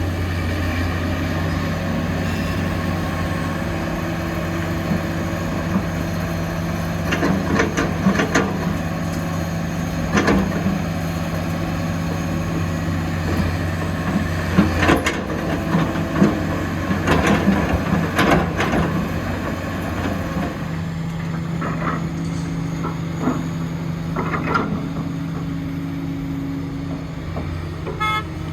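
Heavy construction machine's engine running steadily, with scattered sharp clanks and knocks, some in quick clusters, in the middle of the stretch.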